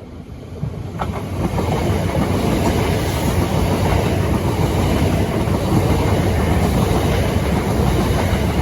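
A pair of Southeastern Class 375 Electrostar electric multiple units passing close by. The noise builds over the first two seconds, with a sharp knock about a second in, into a steady loud rumble of wheels on rail.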